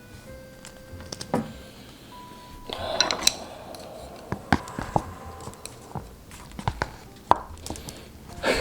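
A utensil clinking and scraping against a dish of noodles, in scattered sharp clicks, with a short rustle about three seconds in.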